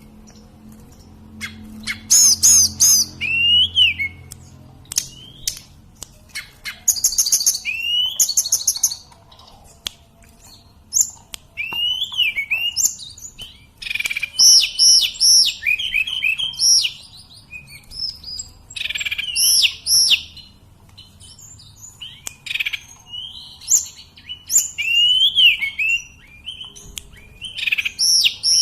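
Tledekan gunung (sulingan gunung) singing: short bursts of clear, high whistled notes repeated every second or two, some phrases with a sweeping rise-and-fall whistle, with brief pauses between phrases.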